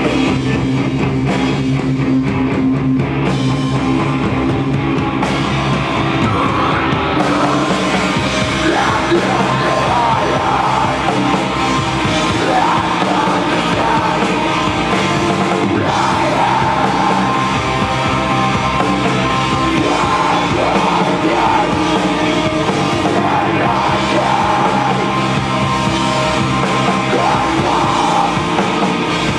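Live rock band playing a heavy song: sustained guitar and bass with drums, the high end filling out about seven seconds in, then shouted, yelled vocals over the band.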